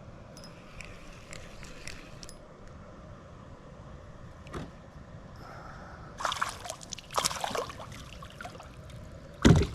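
A just-caught small spotted bass being brought in and handled: a few light clicks, then bursts of rattling and splashing about six to seven and a half seconds in, and a sharp knock near the end.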